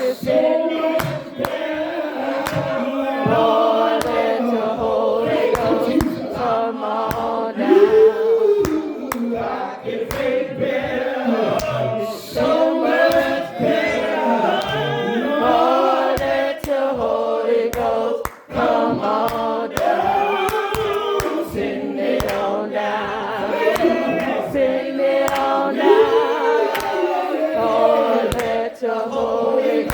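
Church congregation or choir singing a gospel song together, with hand claps on the beat.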